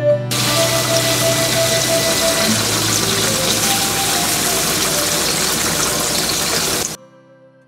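River water rushing steadily and loudly. It starts suddenly and cuts off abruptly about seven seconds in, with guitar music faintly underneath.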